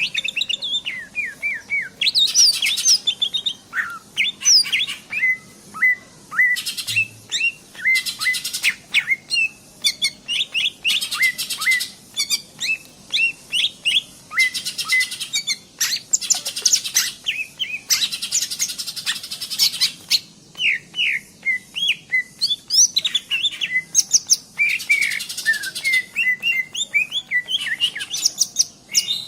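Green leafbird (cucak hijau) singing without pause: a rapid run of varied whistled notes, interrupted every few seconds by short bursts of fast, dry rattling trills.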